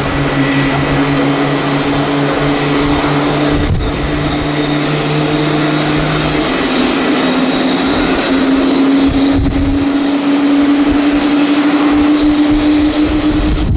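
Passenger jet's engines running loud, a continuous roar with steady humming tones; about halfway through the lower hum drops out and the upper one dips, then climbs back.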